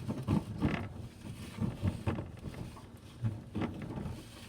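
Two beer drinks being slid and shuffled around on a table for a blind taste test, with scattered knocks and scrapes.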